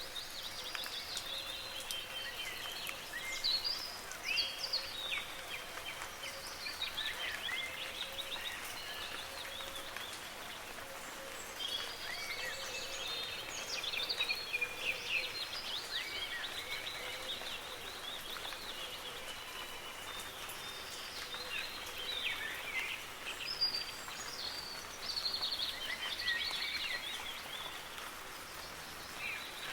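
Several birds chirping and trilling continuously, one call overlapping the next, over a steady hiss of light rain.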